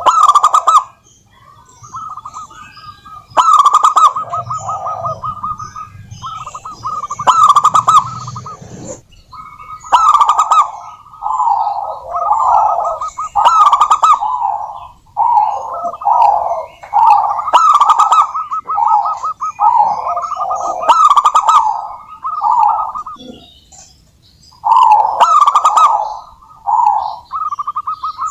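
Zebra doves (perkutut) singing their rapid, rolling cooing phrases. The loudest phrases come about every three to four seconds, with busier overlapping cooing in the middle stretch.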